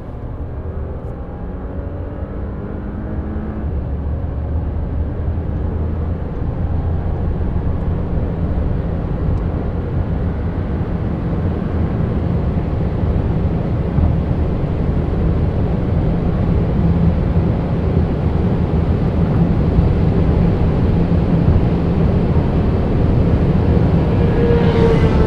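Audi A7 55 TFSI's 3.0 V6 twin-turbo engine pulling at high Autobahn speed under steady acceleration, mixed with tyre and wind noise, the whole sound growing gradually louder.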